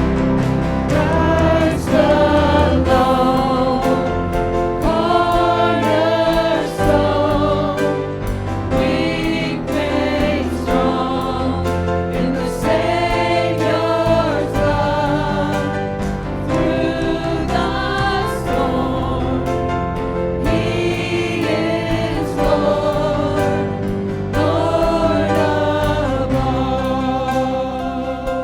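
Gospel choir singing with instrumental accompaniment, sung phrases over a steady bass line.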